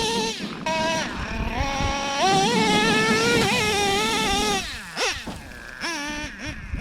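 Traxxas Revo 3.3's OS .21 TM nitro engine running at high revs, a high, buzzing note that rises and falls with the throttle. About four and a half seconds in it drops off and falls in pitch, then comes back in short throttle blips near the end.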